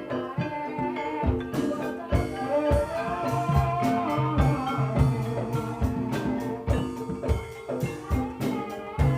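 Javanese gamelan music for an ebeg horse-dance trance: struck metallophones play a ringing melody over frequent sharp kendang drum strokes.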